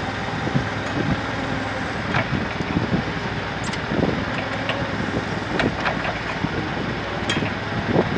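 Forklift engine running steadily while the forks are worked, with scattered light knocks and clicks.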